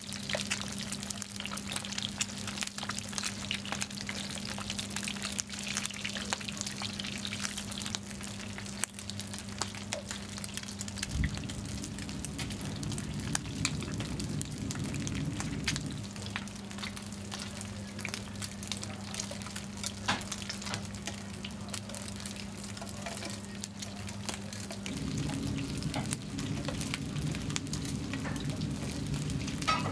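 Food frying in hot oil, a dense, steady crackle and sizzle full of tiny pops. Under it runs a steady low hum, and a heavier low rumble joins twice, about eleven seconds in for five seconds and again near the end.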